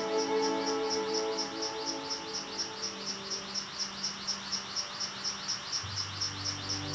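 A high, rapidly repeated chirping call, about four chirps a second, each dropping slightly in pitch, with soundtrack music underneath that thins out midway and returns lower near the end.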